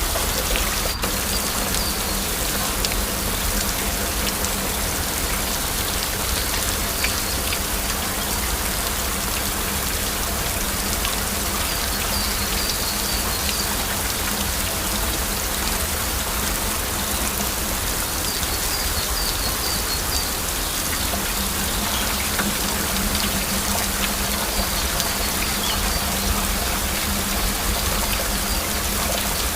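Steady heavy rain falling, a dense even patter. Faint short runs of high chirps come through a few times, and there is a single click about a second in.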